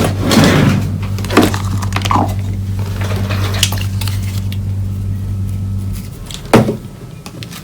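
Scraping and small knocks from cleaning excess soldering flux off a circuit board with alcohol, over a steady low hum that stops about six seconds in.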